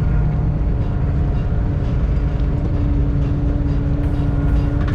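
A fishing boat's engine and hydraulic net roller running steadily under heavy load, winding in the lifting line, with a low rumble and a held hum that grows stronger about halfway through.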